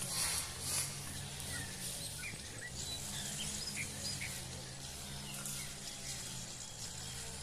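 Bird chirping: a scattering of short, high chirps over a steady low hum.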